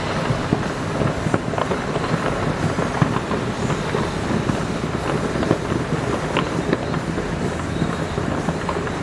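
Fireworks display in full swing: many overlapping bangs and crackles, with a sharp report every fraction of a second over a constant rumble.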